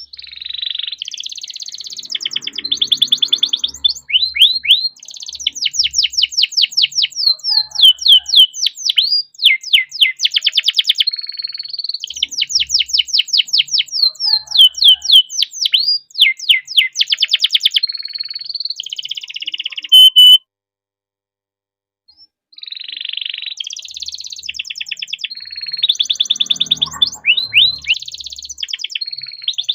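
Domestic canary singing a long, loud song of rapid rolls and trills, with long runs of quick downward-sliding notes. The song cuts off suddenly about twenty seconds in, stops for about two seconds, then starts again.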